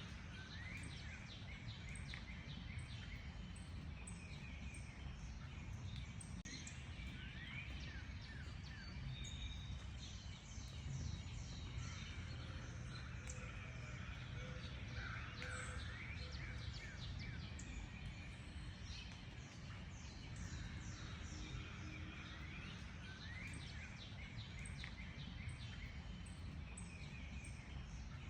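A chorus of wild songbirds, many short chirps and quick rising and falling whistles overlapping all through, over a steady low background rumble.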